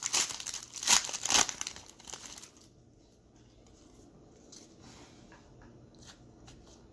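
Trading-card pack wrapper being torn open and crinkled for about two and a half seconds, then a few faint taps.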